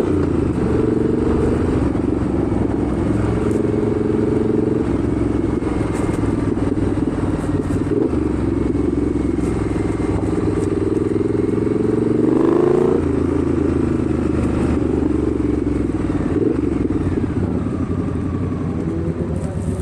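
Motorcycle engine running under way. Its pitch climbs about twelve seconds in, then drops sharply, as on a gear change, with brief dips in the engine note twice more.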